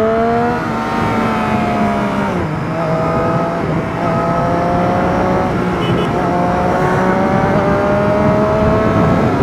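Vehicle engine pulling under acceleration, its pitch rising and then dropping at gear changes about half a second and two and a half seconds in, then climbing slowly again, over steady road noise.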